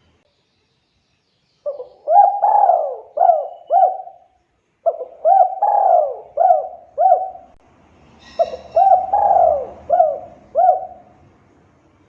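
Spotted dove cooing: three phrases of about five coos each, a second or so apart, after a quiet first second and a half.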